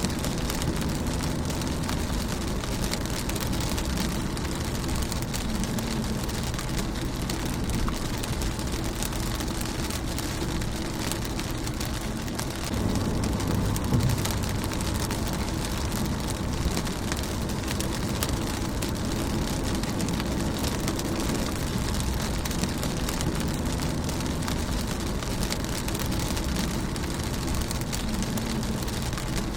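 Rain falling on a car's windshield and body: a dense, steady patter of drops over a low rumble, swelling slightly about halfway through.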